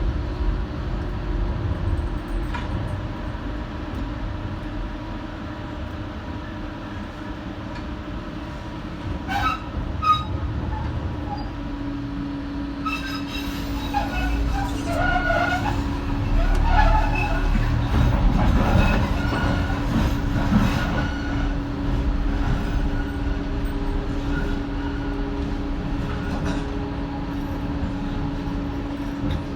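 Docklands Light Railway train running between stations, heard from on board: a steady rumble of wheels on track, with a steady motor hum coming in about twelve seconds in. Scattered wheel squeals come in the middle stretch.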